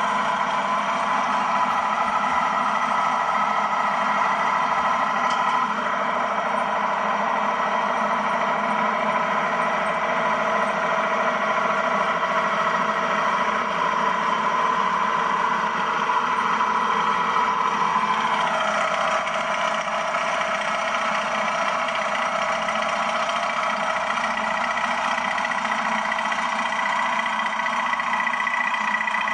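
Ford farm tractor engine running steadily while pulling a sickle mower through grass hay, with a sound that drops in pitch once about eighteen seconds in.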